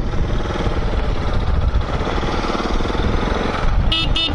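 Dirt bike engine running steadily under way, with a low wind rumble on the microphone. Two short high-pitched chirps sound near the end.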